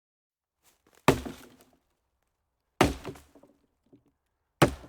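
Three sharp knocks, evenly spaced a little under two seconds apart, each dying away quickly.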